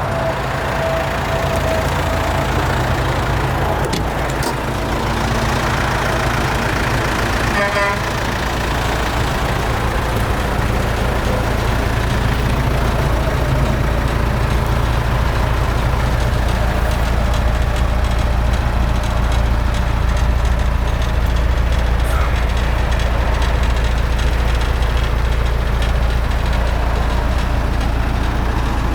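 Land Rover Defender Wolf's 300Tdi turbo-diesel engine running with a steady low rumble, and a brief rapid ticking about eight seconds in.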